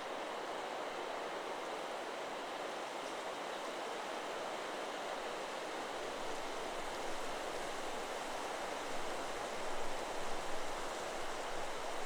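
Wind blowing through forest trees, a steady rushing rustle of leaves that swells in a few gusts near the end.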